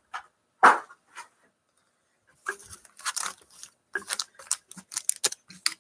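Cardboard box and foil card packs being handled: a sharp tap about half a second in, then a quick run of crinkly clicks and rustles from about two and a half seconds on.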